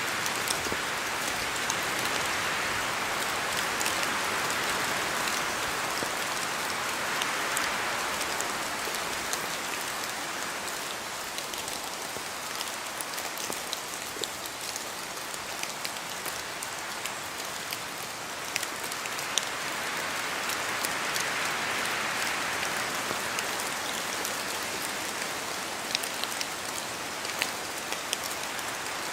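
Steady rain in a forest, with many separate drops tapping from the trees. The rush of wind through the branches swells early on and again about two-thirds of the way through.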